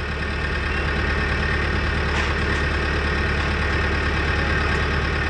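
A vehicle engine idling steadily with a strong low hum, used as the engine sound for a toy road roller.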